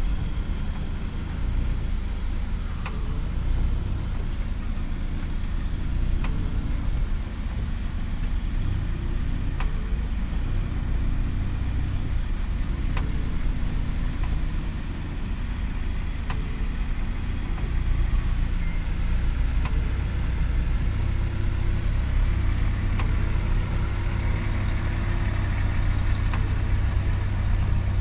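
Motor vehicle engine running steadily with a deep, constant rumble, and a few faint clicks now and then.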